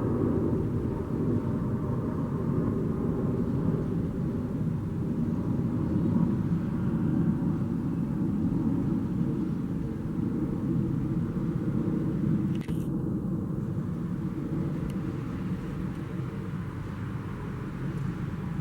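Jet airliner engines giving a steady low rumble, with one brief click about two-thirds of the way through.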